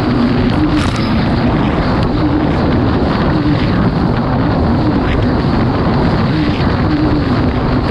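Kawasaki STX 160 jet ski's four-stroke engine running hard under way, a steady drone whose pitch rises and dips a little as the throttle and hull load change, over the rush of wind and water.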